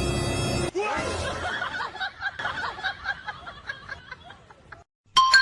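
A person laughing in a run of short, quick bursts that fade away, after background music cuts off less than a second in.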